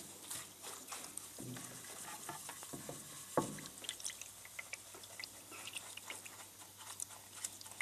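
Hand cleaning of an automatic transmission sump pan: light scrubbing and scraping with many small irregular clicks, and one sharper knock about three and a half seconds in.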